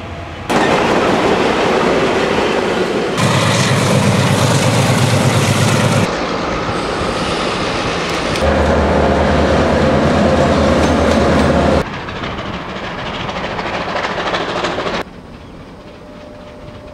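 A run of separate railway recordings joined by hard cuts every few seconds: diesel-electric locomotives (an EL class and a Victorian T class) running past with a steady engine drone and wheels clacking over the rail joints. The last take, near the end, is quieter and shows a steam locomotive working a train.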